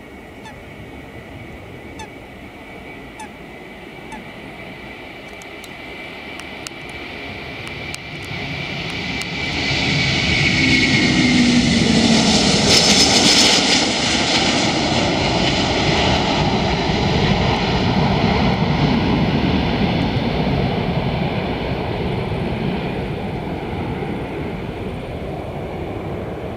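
Jet airliner taking off and passing: its engine noise builds to a peak about halfway through, with a whine that falls in pitch as it goes by, then slowly fades away.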